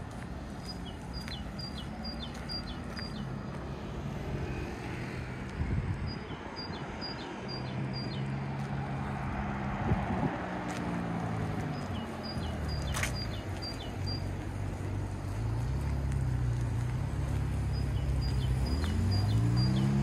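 A songbird repeating a short phrase of about six quick, high notes, four times, roughly every six seconds. Underneath it, passing motor traffic hums low, its engine pitch sliding up and down and growing louder toward the end.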